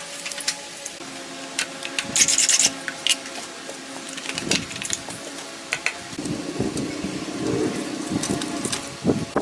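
Scraping and rubbing with hand tools, with scattered sharp clicks and taps; the rubbing grows denser in the second half.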